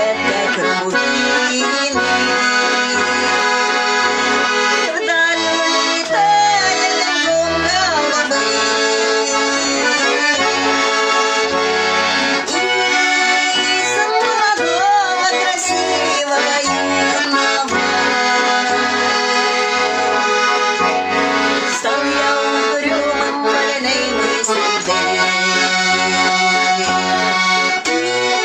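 Instrumental accordion music: a sustained melody played over a steady, regular bass-and-chord beat, with no singing.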